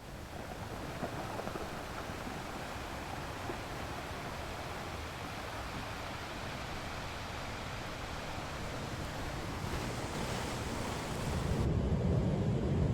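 Sea waves washing on a shore, a steady surf hiss with wind. About 11.7 s in the sound changes to a louder, deeper rumble, like wind buffeting the microphone.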